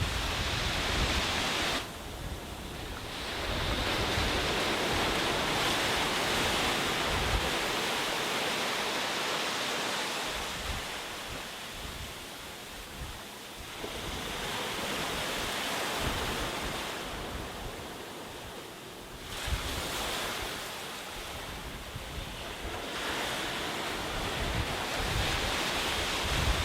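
Sea surf washing onto a beach, swelling and ebbing in slow surges every few seconds. Wind buffets the microphone with low rumbles near the start and again near the end.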